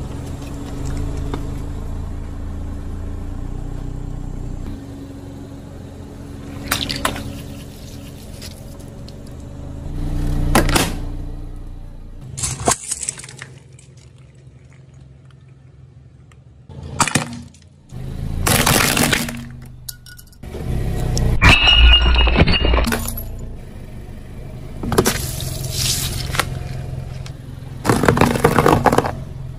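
A car's tyre rolling over and crushing a series of objects: about eight separate crunching, cracking bursts, some with a glassy shatter, the loudest about two thirds of the way through, over a low car engine hum in the first few seconds.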